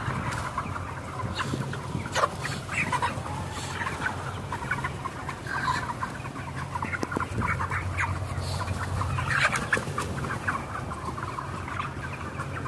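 A flock of chickens, about 41 days old, clucking and calling, many birds at once and overlapping, over a steady low hum.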